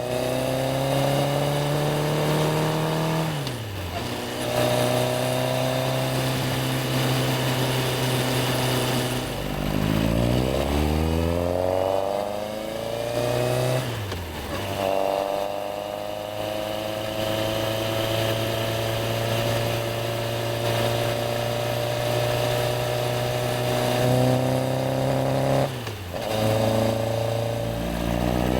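Yamaha XJR1300's air-cooled inline-four engine under way, its revs climbing smoothly and then dropping sharply at each gear change, several times, with steady running between.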